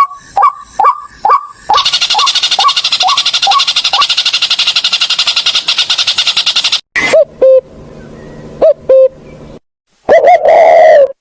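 Bird calls: a run of short, hooked chirps about two to three a second, overlaid for several seconds by a fast, dry rattling trill. After a sudden break come a few falling call notes and, near the end, one louder drawn-out wavering call.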